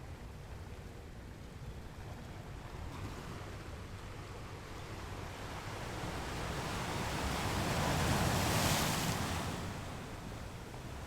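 Strong sea surf: a steady low rumble of waves, with one wave building from about halfway and breaking loudly around eight seconds in, its wash then falling away.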